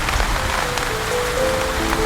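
Steady rain, with a slow, soft melody coming in about half a second in: single held notes stepping up and down.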